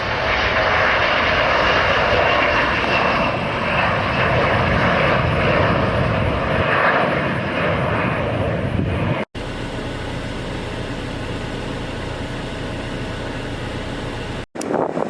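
Jet airliner engines, loud and steady, as an aircraft passes close by. About nine seconds in, the sound cuts off abruptly and is replaced by a steadier, quieter engine rumble.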